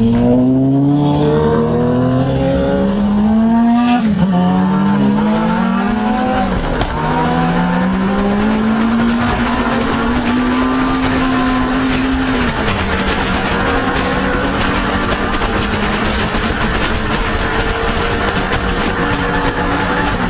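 Motorcycle engine accelerating up through the gears, its pitch rising and then dropping back at each shift a few times, then settling into a steady cruise after about twelve seconds, over a continuous rush of wind.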